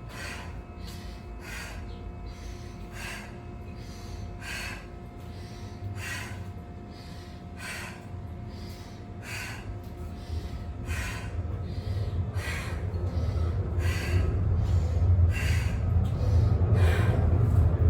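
A woman breathing hard and fast under exertion during a high-intensity workout, sharp breaths at an even pace of a little more than one a second. A low rumble builds up underneath in the second half and grows louder toward the end.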